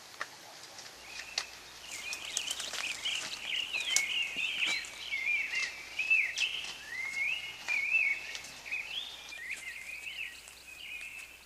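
Birds chirping and twittering in a continuous run of quick, wavering calls, starting about a second and a half in. Scattered light clicks and rustles come from people moving through undergrowth.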